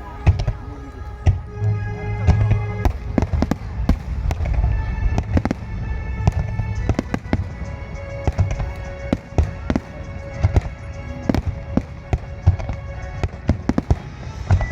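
Aerial firework shells bursting in rapid succession, several bangs a second, in a fireworks grand finale. Music plays steadily underneath.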